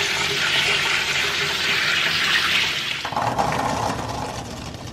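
A pull-down kitchen faucet sprayer runs water over cranberries in a plastic colander. About three seconds in, the spray stops and the wet cranberries are tipped into a nonstick pan, tumbling in with a lower, irregular rustle that fades away.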